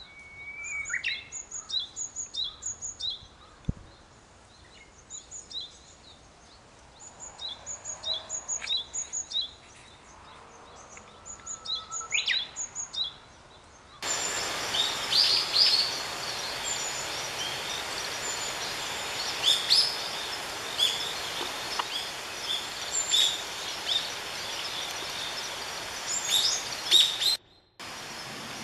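Wild songbirds chirping in quick runs of short, high calls. About halfway through, the sound switches abruptly to a louder, noisier outdoor background with many more calls, then cuts out briefly near the end.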